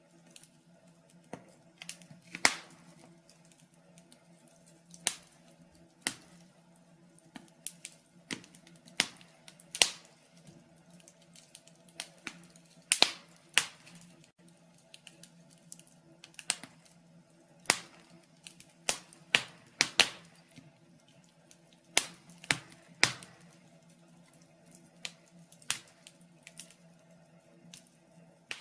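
Wood fire in a fireplace crackling, with irregular sharp pops, a few of them much louder than the rest, over a faint low hum.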